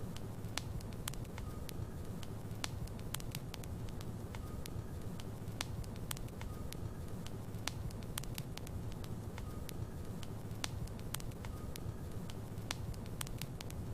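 Logs burning in a fireplace: a steady low rumble of the fire with frequent irregular sharp pops and crackles, and a few faint short whistles now and then.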